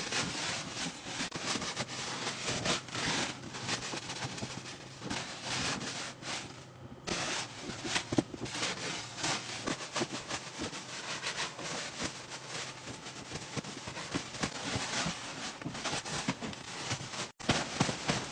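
Irregular scraping, rubbing and crunching, as of snow being walked on or handled, continuing without a break.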